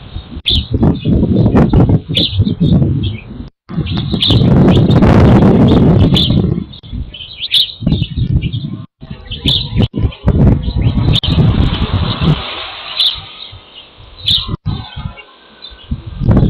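Small birds chirping in short high calls about once a second, over loud gusts of low rumbling noise; the audio cuts out briefly a few times.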